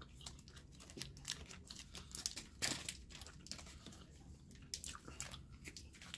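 A person chewing alligator jerky: faint, irregular crunches and wet clicks of tough dried meat being worked between the teeth, with one louder crunch about two and a half seconds in.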